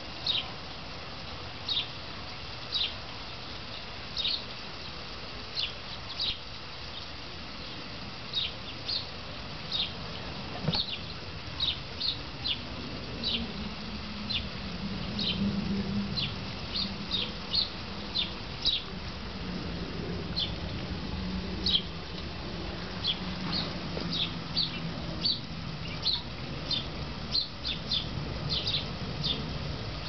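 Small bird chirping repeatedly outdoors: short, high chirps that drop slightly in pitch, about one or two a second. A low, steady hum joins about halfway through.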